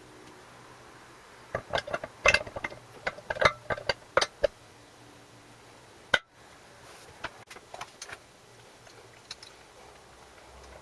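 Small hard objects, likely metal parts or tools, clinking and tapping: a quick flurry of clicks for a few seconds, one sharp click a little later, then a few light scattered ticks.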